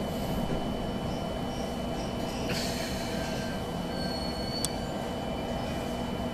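Inside an electric commuter train moving slowly past a station platform: steady running rumble with a thin high whine, a hiss about two and a half seconds in, and a short high wheel squeal with a click at about four and a half seconds.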